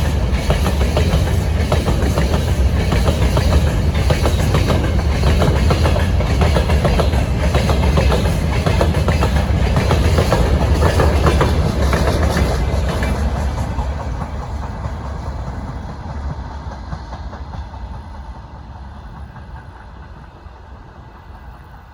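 Freight train passing close by, its wagon wheels clattering over the rail joints with a heavy low rumble. From a little past halfway the sound steadily fades as the train moves away.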